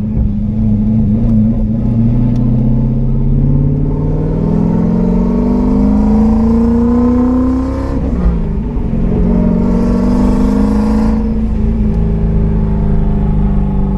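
Turbocharged 2015 Mustang's Coyote 5.0 V8 heard from inside the cabin, pulling hard with its pitch climbing for about eight seconds, dropping sharply at a gear change, then climbing again. A hiss rises over it about ten seconds in, and near the end the engine settles to a steadier, slowly falling tone.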